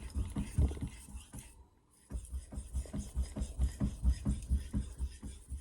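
Santoku blade being stroked rapidly back and forth on a wet 5000-grit sharpening stone, a steady rhythm of about four or five strokes a second. It stops briefly about a second and a half in, then resumes.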